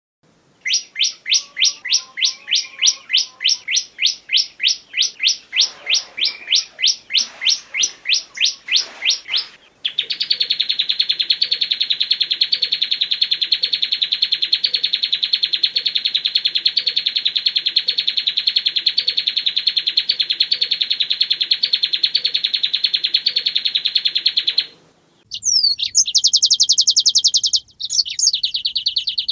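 Recorded songbird song: a fast series of about three downslurred whistled notes a second, then a long, rapid, unbroken trill lasting some fifteen seconds that stops abruptly. After a short break, a different bird with varied chirps and sweeping notes starts about three-quarters of the way in.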